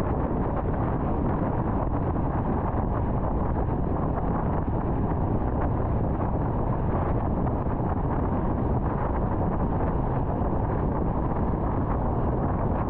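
Steady road noise of a car cruising on the interstate: an even rush of tyre and wind noise.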